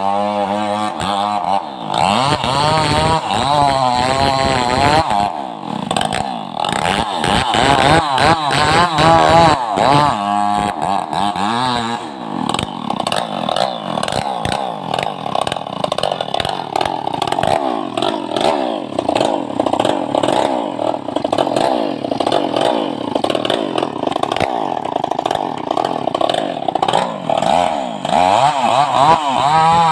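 Stihl MS381 two-stroke chainsaw running hard. Its engine pitch swings up and down over the first dozen seconds, then holds steadier.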